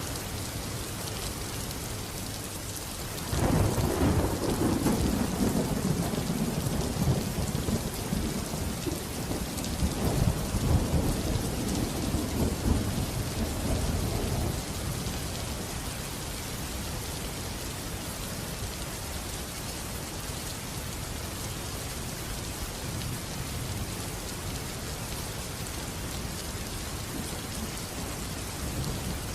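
Steady heavy rain, with a roll of thunder that breaks in suddenly about three seconds in, rumbles low for about ten seconds with a second swell, and dies away, leaving only the rain.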